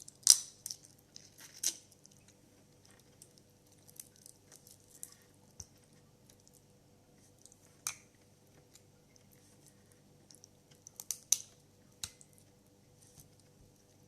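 Eating crab close to the microphone: a few sharp cracks and crunches of crab shell, loudest near the start and about eleven seconds in, with soft chewing and squelching between them.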